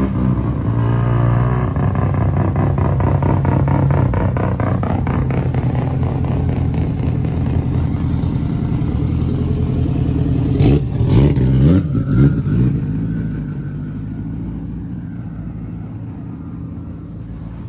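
Mazda RX-7 pulling up with its engine running at low speed, blipped through a few quick revs about eleven seconds in, then fading away.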